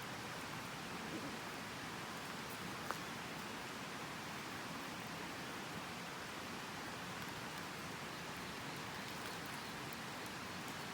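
Steady rushing of a gorge stream, with one sharp pop about three seconds in.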